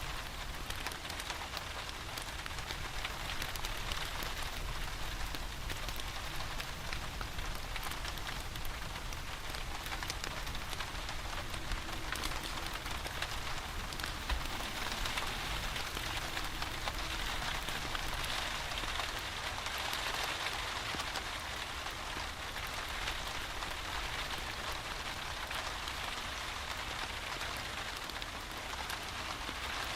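Steady rain falling, a continuous even hiss with a dense patter of small drops.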